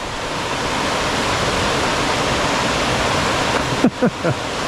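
Steady rush of water pouring down a waterfall. A brief voice cuts in about four seconds in.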